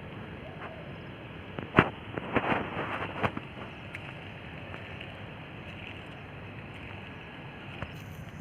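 A sharp knock, then about a second of water splashing, over a steady background hiss.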